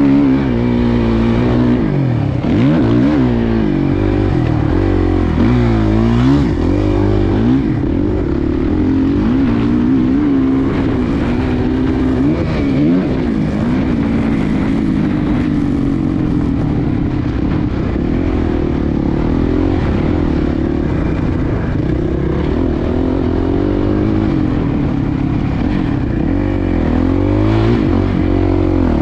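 Suzuki motocross bike's engine revving up and falling back over and over as the throttle is worked, with the pitch swinging every second or two.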